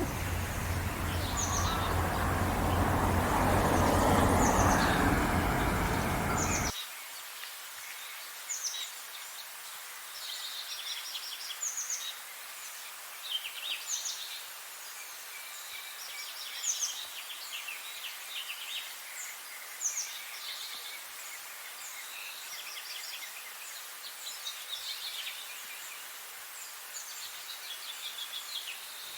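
Several birds singing short chirps and trilled phrases. A loud low rumble covers the first several seconds and cuts off suddenly about seven seconds in, leaving only the birdsong.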